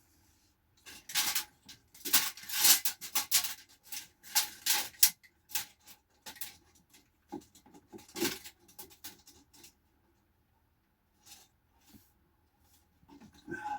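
Irregular rubbing, clicks and light knocks of things being handled at close range, busiest in the first few seconds, thinning out, then going quiet for a couple of seconds before a few more clicks near the end.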